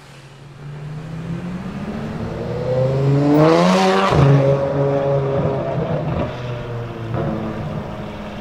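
Ferrari F12 Berlinetta's V12 engine with a straight-through Armytrix titanium exhaust, rising in pitch and loudness as the car accelerates. About four seconds in, at its loudest, the pitch drops sharply, then the engine note holds lower and fades.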